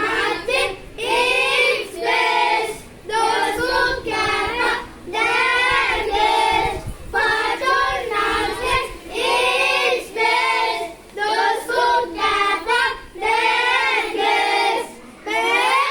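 A group of young children singing an English poem together in unison, in short phrases with brief pauses between them.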